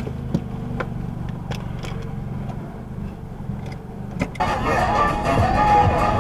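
A car's steady low engine and road drone, with a few light clicks. About four seconds in, a louder, busier sound cuts in abruptly over it.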